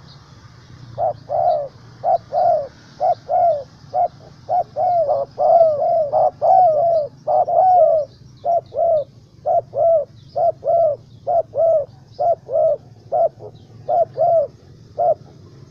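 Spotted doves cooing: short coos follow one another quickly from about a second in, with faint chirps of small birds higher up.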